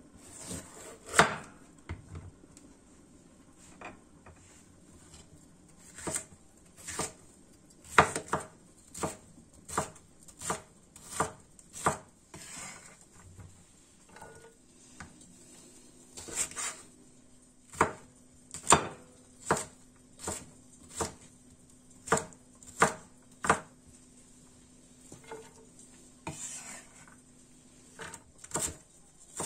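A knife chopping on a cutting board: separate sharp strokes, roughly one a second, with a couple of short pauses.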